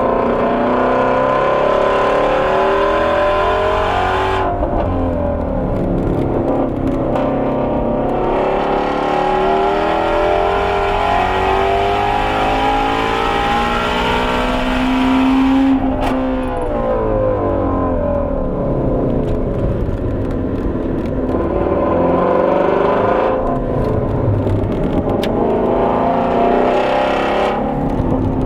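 Shelby GT350R's 5.2-litre flat-plane-crank V8 under hard acceleration on track, its pitch climbing through the revs and dropping sharply several times at gear changes or lifts for braking.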